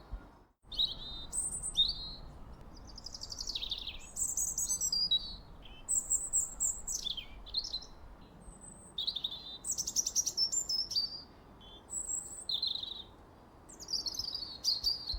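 Songbirds chirping and singing in a steady stream of short, quick phrases, many sliding down in pitch, with a brief silent gap about half a second in.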